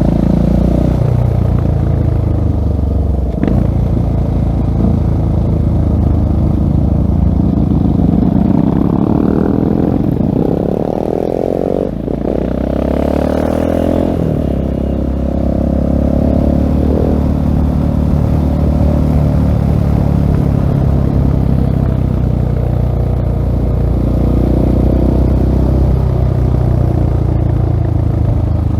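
2016 Husqvarna 701 Supermoto single-cylinder engine running through a LeoVince full-system exhaust while riding. The engine pitch rises and falls as the throttle is opened and eased off, with a short dip about halfway through.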